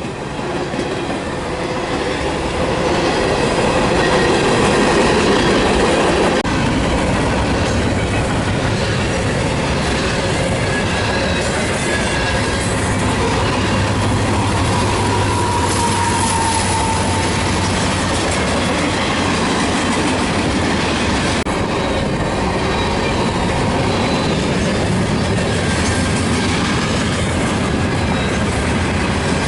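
A train passing close by. It grows louder over the first few seconds, then settles into a steady rumble of wheels clicking over the rail joints, with a brief wheel squeal around the middle.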